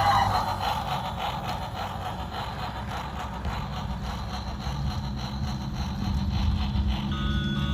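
Steady low mechanical rumble of a running train or motor, with a few steady tones coming in near the end.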